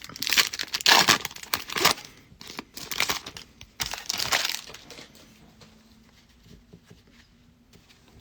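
Foil trading-card pack wrapper being torn open and crinkled in the hands, in four or five loud crackling bursts over the first few seconds, then quiet.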